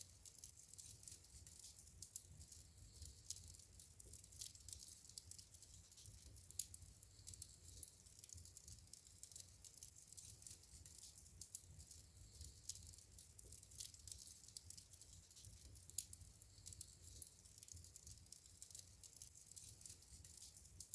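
Wood fire crackling in a fireplace: a faint, steady run of small sharp crackles and ticks over a low rumble, with two louder pops, one about a third of the way in and one about three-quarters of the way through.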